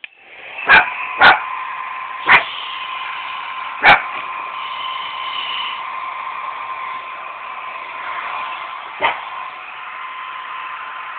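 Hair dryer running with a steady whirring hiss and a thin whine, coming up to speed at the start, while a puppy barks at it: four sharp barks in the first four seconds and one more near the end.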